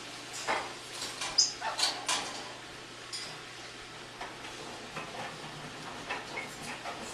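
Household cleaning noises: scattered clicks, light knocks and scraping, busiest in the first two seconds, with a brief high squeak about a second and a half in.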